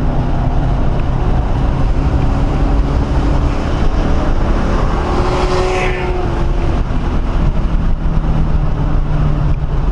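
1997 Ford Mustang SVT Cobra's 4.6-litre DOHC V8 running hard at track speed, heard from inside the cabin under heavy road and wind noise. A rising hiss swells and cuts off sharply about six seconds in.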